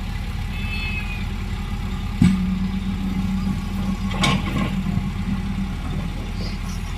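Heavy earthmoving machine's diesel engine running steadily, with a sharp metal clank about two seconds in, after which a steady hum joins the rumble for a few seconds, and another clank around four seconds in.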